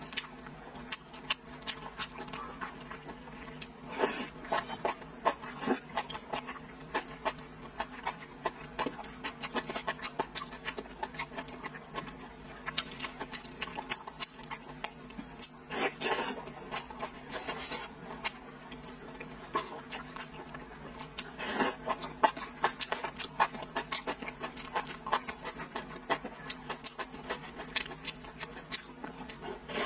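Close-miked chewing and lip-smacking of a person eating braised pork belly: a dense run of wet mouth clicks, with a few louder bursts spread through.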